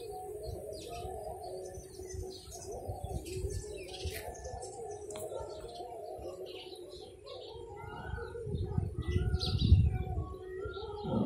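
Birds chirping in many short high notes over a steady, lower, wavering call that runs under them. A low rumble swells about eight to ten seconds in.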